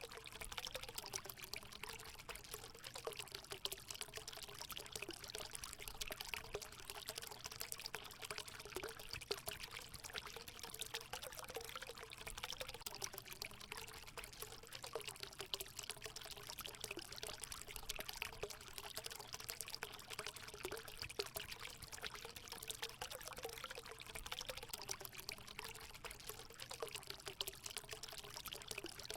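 Water pouring and trickling steadily into a hot spring pool, with a constant wavering gurgle.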